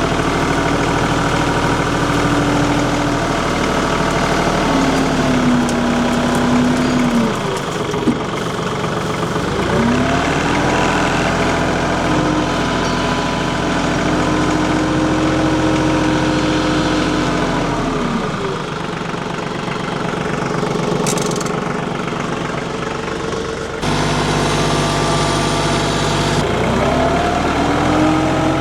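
Tractor engine running and working, its pitch rising as it is throttled up and falling back several times: up near the start, down about 7 s in, up again from about 10 s to 18 s, low for a while, then rising again near the end.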